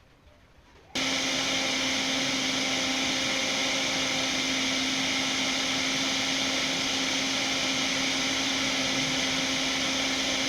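A mini air conditioner's small fan motor starting up about a second in, then running steadily: a constant airy whoosh with a steady hum.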